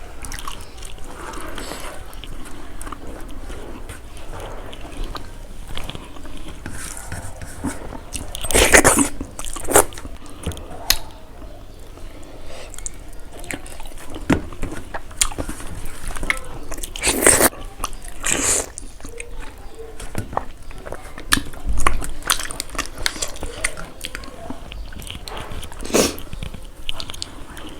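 Close-up eating sounds: chewing and biting through a meal of fried pork and rice, with many small wet clicks and crunches. Twice, about nine and seventeen seconds in, comes a louder noisy burst.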